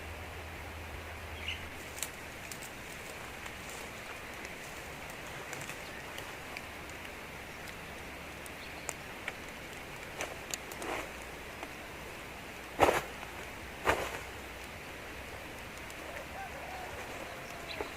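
Steady outdoor background hiss with scattered light clicks and rustles, and two louder knocks about a second apart past the middle.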